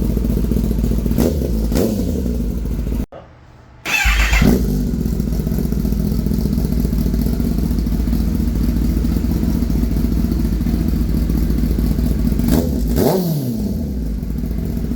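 Kawasaki ZX-10R inline-four running through an M4 slip-on exhaust with the dB killer removed, idling and being blipped: two quick revs about a second in, a loud rev after a brief break around four seconds in, and two more near the end, each falling back to idle.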